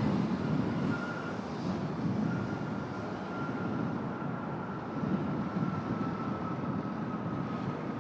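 Embraer E175 jet airliner's turbofan engines during its landing: a steady rumble, with a thin high whine that comes in about two seconds in and slowly falls in pitch.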